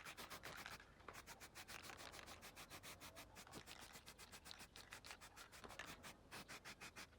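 Faint hand sanding: quick, even back-and-forth scraping strokes, about seven or eight a second, with a brief pause about six seconds in.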